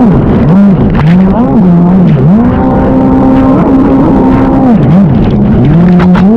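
Stand-up jet ski engine running hard over a rush of noise. Its pitch drops and climbs back again about five times as the throttle is let off and opened up through turns.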